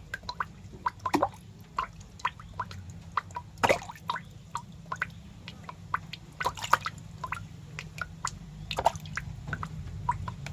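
Quick, irregular wet clicks and squishes, several a second with a few louder ones, over a steady low hum.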